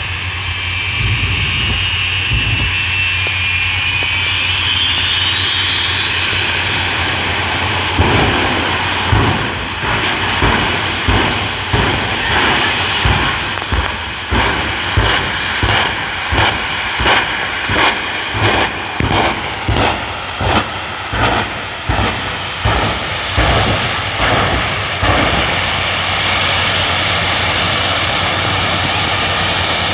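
Twin jet engines of a jet-powered fire truck running loud: a high whine rises as they spool up, then about a dozen seconds of rhythmic bursts, roughly three every two seconds, before the engines settle back to a steady run.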